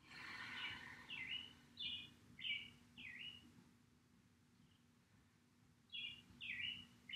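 A songbird singing faintly: a phrase of about five quick, repeated downslurred notes, a pause of a few seconds, then the same song starting again near the end.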